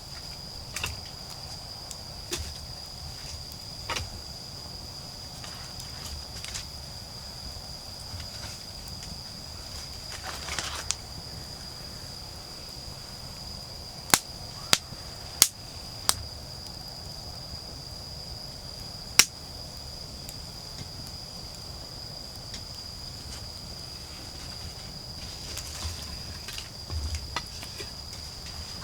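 Autumn insects trilling in one steady high tone, over a wood fire that pops and cracks sharply now and then. The loudest pops are four in about two seconds near the middle and a single one a few seconds later.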